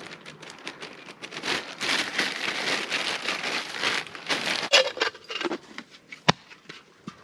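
Crunching and rustling of charcoal pieces being handled and packed into a pouch, densest through the middle, with a single sharp click near the end.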